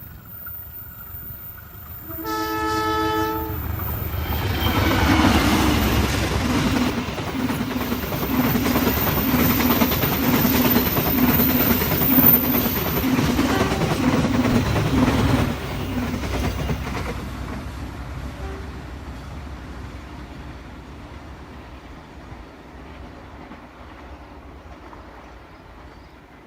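A train sounds one short horn blast about two seconds in, then passes close by, its wheels clicking over the rail joints in an even rhythm before the rumble fades away into the distance.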